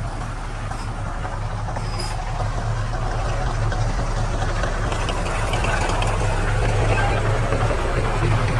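Heavy-equipment diesel engine running steadily with a deep, even hum, slowly growing louder.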